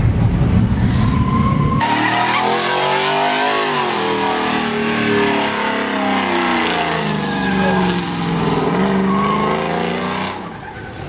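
Pickup truck doing a burnout: the engine is revving hard, its pitch rising and falling, with tires squealing. It starts as a deep rumble that switches abruptly about two seconds in, and it drops away near the end.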